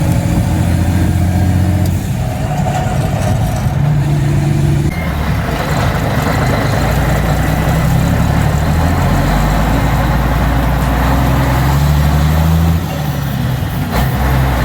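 Mack Superliner dump truck's diesel engine running under way, heard loud, its pitch stepping up and down several times.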